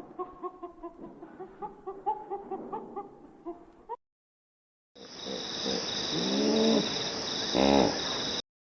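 Chickens clucking in a rapid string of short calls. After a brief gap, a second recording of chicken calls follows over a steady hiss, with a couple of longer calls near the end.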